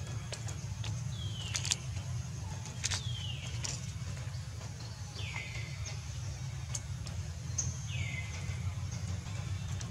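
A bird calling over and over, each call a short note that slides down and levels off, about every two to three seconds. A few sharp clicks are heard, and a steady low hum runs underneath.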